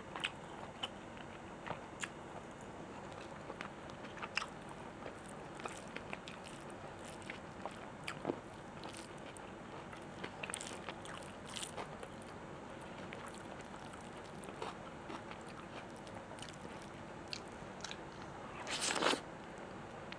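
Close-miked eating sounds: chewing with many small wet clicks and crunches. One louder, longer crunch comes near the end.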